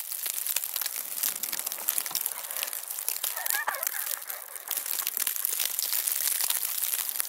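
Footsteps crunching in snow, mixed with the crinkling rustle of clothing, as a continuous stream of small crackles.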